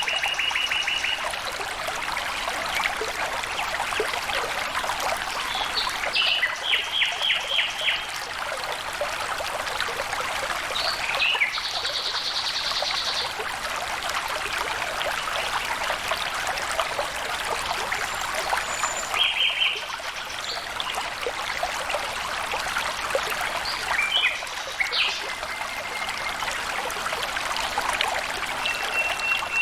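Stream water flowing and trickling steadily, with birds calling now and then over it: short trills and chirps every few seconds, and a thin held whistle near the end.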